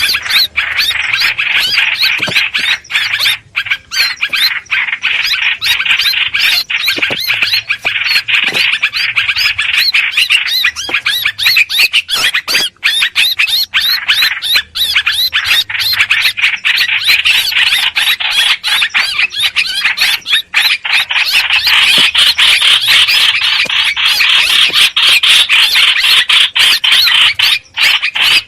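Continuous harsh, scratchy chattering of hoành hoạch birds, a lure recording played to draw the birds in for trapping, dense calls packed with quick clicks and short breaks.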